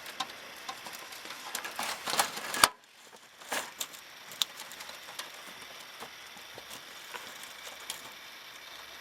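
Rain pattering and dripping in a windstorm, with many scattered sharp drip ticks over a steady hiss of wind and rain. A louder stretch cuts off abruptly about two and a half seconds in, leaving a quieter patter.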